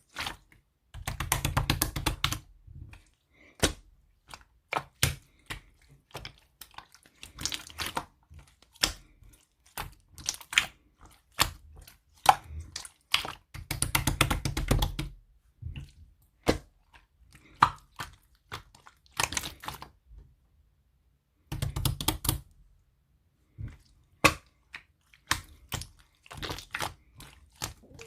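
Slime being played with by hand: many quick, sharp clicking and popping sounds. Three longer spells of dense squishing come about a second in, around the middle, and about three quarters of the way through.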